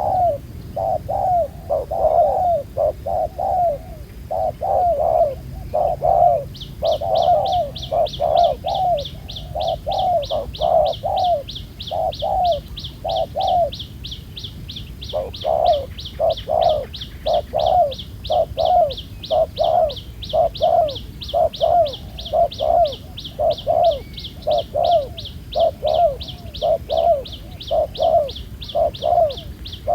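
Spotted dove cooing over and over, phrase after phrase, with a short break about halfway through. From about six seconds in, a high rapid ticking, about four a second, runs steadily alongside.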